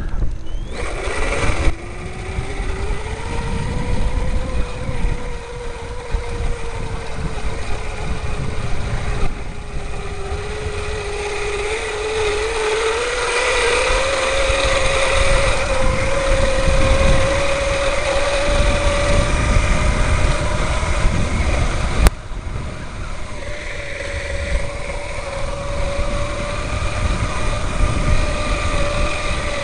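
Electric bike's drive motor whining under power, its pitch rising quickly about a second in, wavering, then climbing slowly as the bike picks up speed, over a low rumble of wind and riding noise. A single sharp click about two-thirds of the way through.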